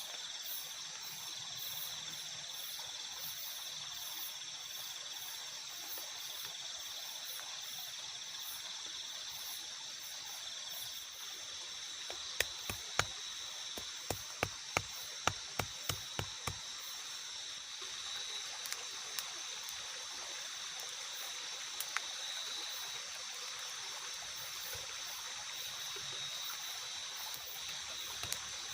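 Night forest ambience in light rain: a steady hiss of drizzle and running water under a constant high insect drone. About halfway through comes a quick run of a dozen or so sharp knocks, with a few more spread out later.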